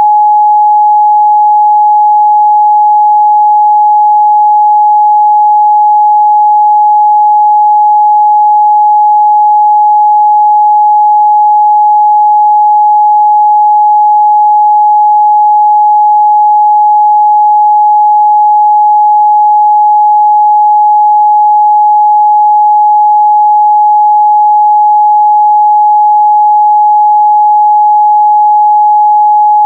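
A pure 841 Hz sine-wave test tone, held steady and loud with no change in pitch or level.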